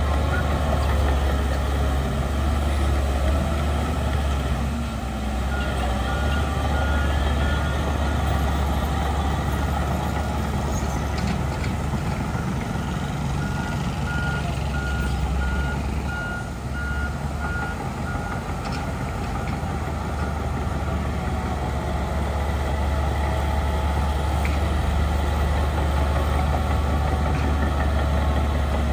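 Heavy diesel earthmoving machinery running steadily with a deep engine hum, and a reversing alarm beeping in a short run about six seconds in and again for about five seconds midway.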